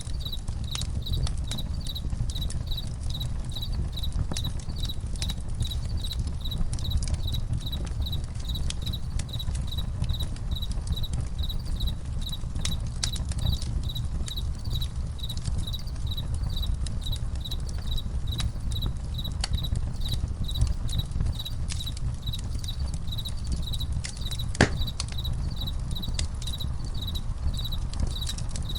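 Campfire crackling and popping over a low steady rumble, with crickets chirping in a fast, even, high-pitched rhythm throughout. One sharper pop stands out near the end.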